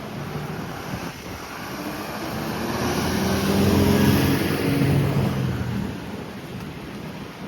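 A car passes close by, its engine and tyre noise swelling to a peak about four seconds in and then fading away.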